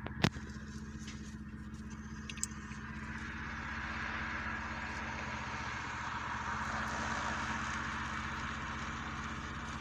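Car engine idling, heard from inside the cabin, with one sharp click near the start. About three seconds in, a steady rushing hiss swells in over the idle and holds.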